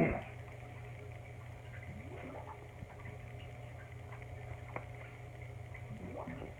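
Quiet room with a steady low hum, a loud brief sound at the very start, a couple of faint short rising squeaks and a single sharp click near the end.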